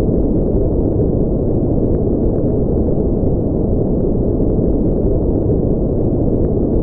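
Steady, unbroken sleep noise, deep and muffled, with almost no treble. It sounds closer to a low rumbling hiss than a bright white-noise hiss.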